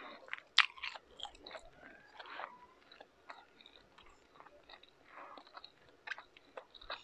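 A person chewing a mouthful of food with the mouth closed: scattered soft wet clicks and smacks, the sharpest about half a second in.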